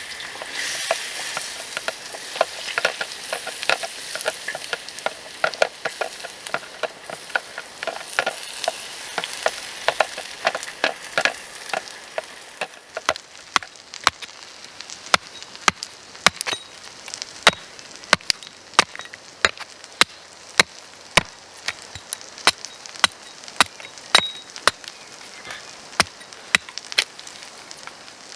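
Potatoes frying in hot oil: a loud sizzle that starts as they go into the pan and dies down after about twelve seconds. After that come sharp, separate pops and crackles of spitting oil, about one or two a second.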